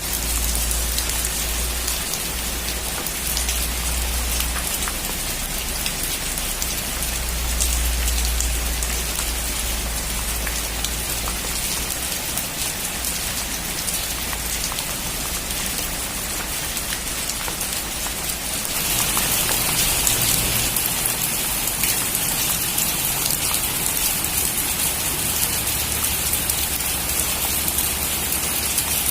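Heavy rain drumming steadily on a metal roof, with a low rumble underneath during the first third. About two-thirds of the way in, the rain grows louder and brighter.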